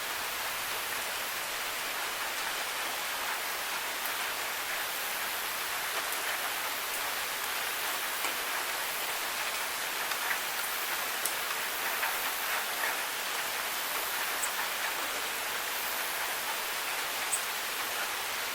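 Steady rain falling, a continuous even hiss with scattered light drips and ticks of drops landing.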